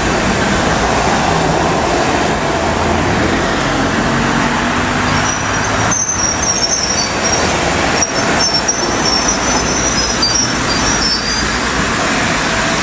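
A train running on rails with a steady rumble. From about five seconds in, the wheels give a high, broken squeal, with a couple of clanks around the middle.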